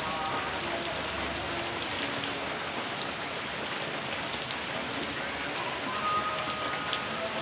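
Steady rain falling, an even unbroken hiss of rain on the ground and surfaces.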